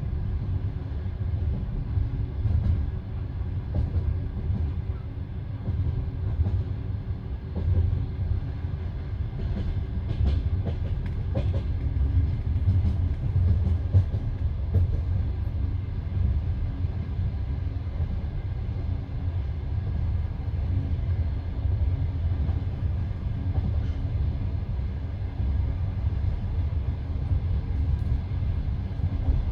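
Passenger train carriage running along the track: a steady low rumble of wheels on the rails, with a few sharper clicks about ten to twelve seconds in.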